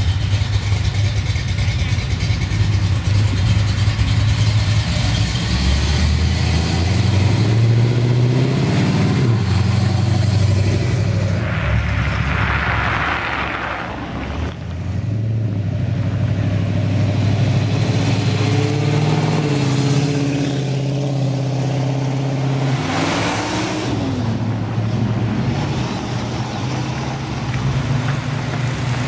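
Classic cars' engines running with a deep, low rumble as they pull out and drive off one after another, the revs climbing several times as each accelerates.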